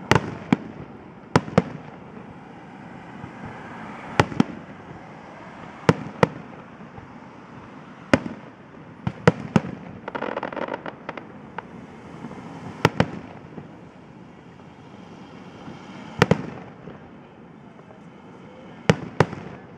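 Aerial fireworks shells bursting in sharp bangs every second or two, often in quick pairs, with a stretch of crackling about ten seconds in.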